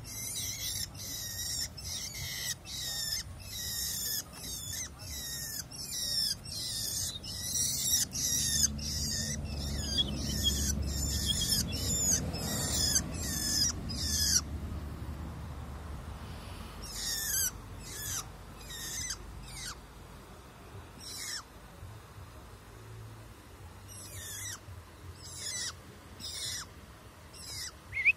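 Long-tailed shrike giving harsh, rasping calls, each ending in a short falling note, repeated about twice a second; after a pause of a few seconds halfway through, the calls come more sparsely, about one a second. A faint low rumble swells underneath in the middle.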